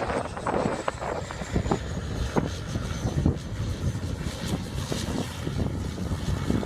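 AH-64 Apache attack helicopter flying a display: a steady rumble of rotor and engine noise with irregular knocks and wind buffeting the microphone. A faint high whine falls slowly in pitch over the first few seconds.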